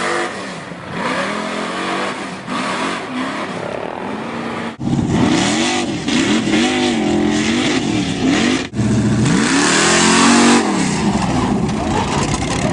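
Pickup truck engine revving over and over, its pitch climbing and dropping with each blip of the throttle, broken by two sudden cuts about five and nine seconds in.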